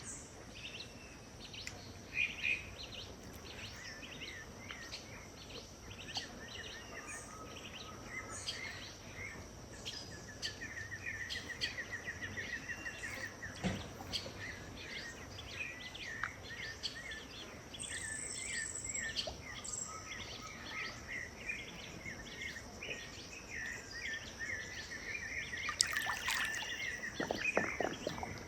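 Many birds calling and singing over one another in a wetland dusk chorus, with a steady high-pitched whine underneath. A rapid trill of repeated notes comes a little before the midpoint, and a louder burst of calls comes near the end.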